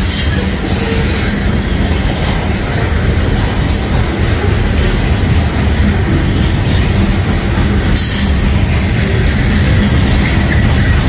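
Freight train of coal hopper cars rolling past close by: a steady, loud rumble of steel wheels on rail, with occasional sharp clacks as the wheels pass over rail joints.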